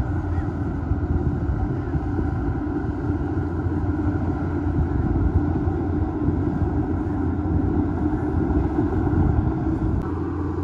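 Bulldozer's diesel engine running steadily under work, a dense low rumble.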